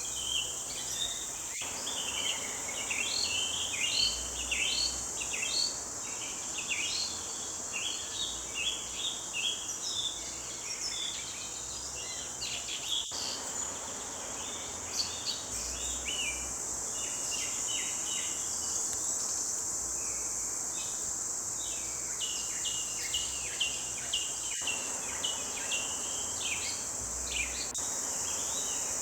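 A chorus of songbirds in quick, short chirps and trills over a steady, high insect buzz. The birdsong thins out around the middle and picks up again later on.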